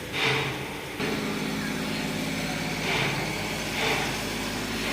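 A motor running with a steady hum that gets louder and fuller about a second in, while the van's AC lines are being pressurized for a leak test.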